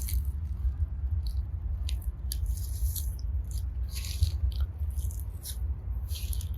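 Slime packed with small plastic heart and seashell beads being squeezed and picked through by hand, giving irregular soft crackles and squishes over a steady low rumble.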